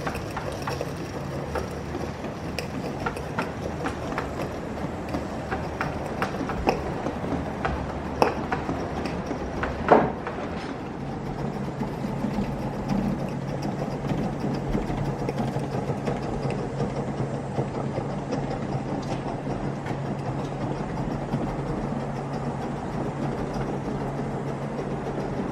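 Aster live-steam model locomotive, the Duchess of Atholl, running on its track: a steady mechanical clatter with many small clicks and two louder knocks a little before the middle, and a steady low hum that sets in about eleven seconds in.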